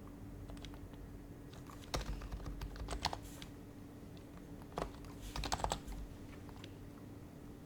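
Typing on an HHKB Professional HYBRID Type-S keyboard with silenced Topre switches. There are two short runs of keystrokes, about two seconds in and about five and a half seconds in, with a few single key presses between them.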